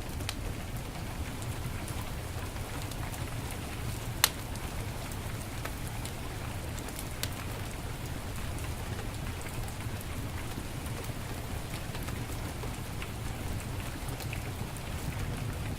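Steady heavy rain with a wood fire crackling, scattered small pops and one sharp, loud crack about four seconds in.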